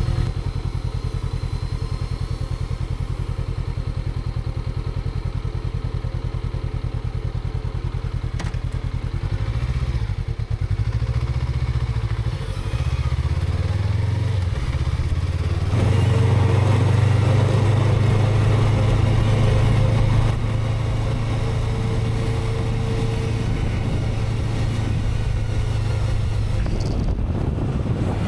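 Honda CB500X's parallel-twin engine running on the move. The engine note dips and rises a few times around the middle, then runs louder for a few seconds before settling back to a steady cruise.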